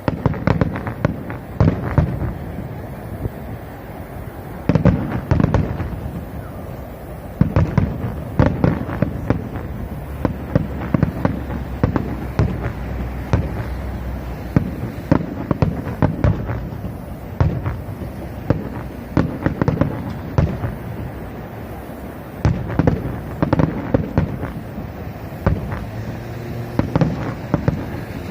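Fireworks going off in quick succession: a dense string of sharp bangs and crackles, with louder clusters of reports every few seconds.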